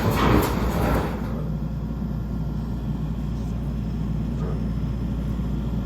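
Skid steer engine running steadily, with a brief louder noisy rush in the first second.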